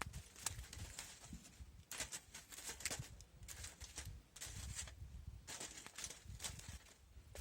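Irregular light taps and clicks, several a second, over a faint low rumble.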